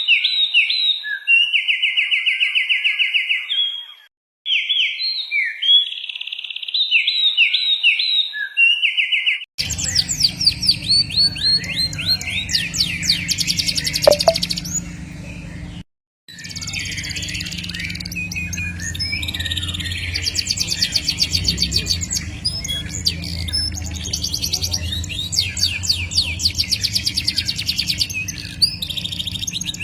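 Caged songbirds singing: repeated clear whistled phrases and trills, then about a third of the way in an abrupt switch to a different recording of fast, high rolling trills over a low background hum, broken by a brief dropout just past halfway.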